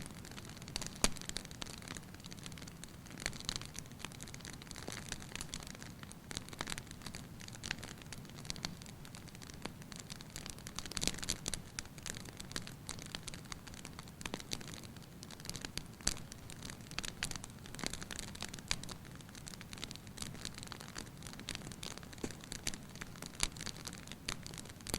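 Fire crackling in a fireplace: many irregular crackles and pops over a steady low background.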